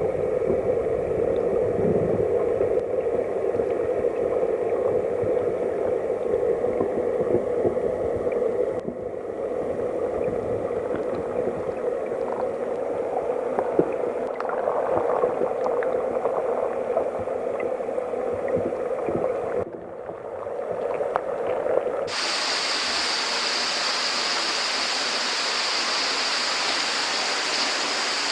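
Mountain stream water heard from underwater: a muffled, gurgling rush. About 22 seconds in it cuts to the stream heard above the surface, a bright, steady rush of falling water.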